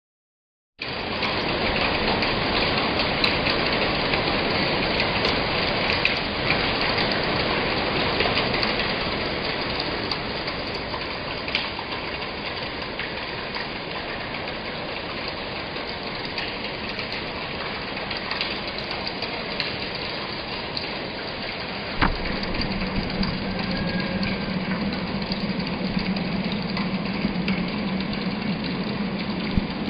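Steady rain falling, an even hiss with scattered faint drop ticks. About two-thirds of the way in a sharp click is heard and a steady low hum joins the rain.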